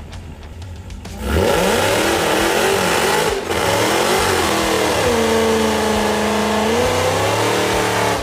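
Dodge Challenger SRT Hellcat's supercharged 6.2-litre HEMI V8 idling, then revved hard about a second in for a burnout, with the rear tyres spinning. The revs waver, dip briefly about three seconds in, then hold high and steady.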